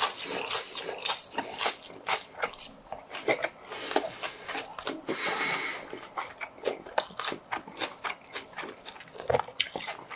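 Close-miked chewing of crunchy raw minari stems with pork belly: many short, crisp crunches and wet mouth sounds, with a breathy stretch about halfway.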